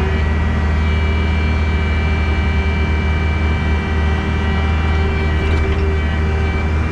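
Diesel engine of a piece of earthmoving equipment running steadily under work, with a steady high whine over the low drone.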